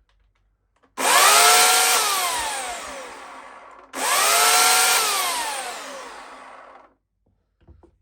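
Titan TTL758CHN electric chainsaw run up twice with short trigger pulls: each time the motor and chain whine up to speed, then wind down falling in pitch as the trigger is released. The runs are oiling the new chain.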